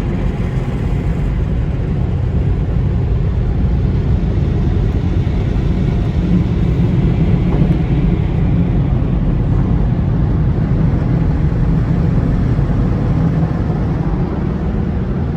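Laserwash touchless automatic car wash running, heard from inside the car's cabin: a loud, steady low rumble.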